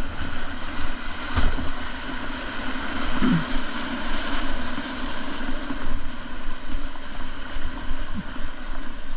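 Rushing whitewater around a kayak, with wind on the microphone. There is a brief knock or splash about a second and a half in.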